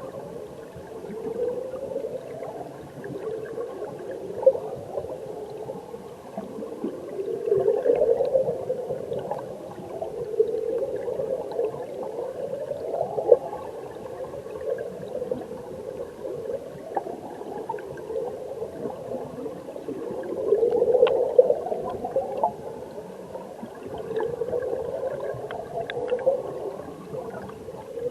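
Flowing stream water heard underwater: a continuous low gurgle of current and bubbles. Every few seconds it swells with upward-sweeping surges, and there are scattered sharp ticks.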